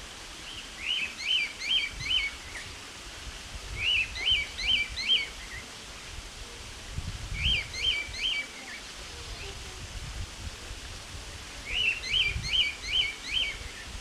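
A small bird calling in short runs of three to five quick, high, chirping notes, four times, over a faint low background rumble.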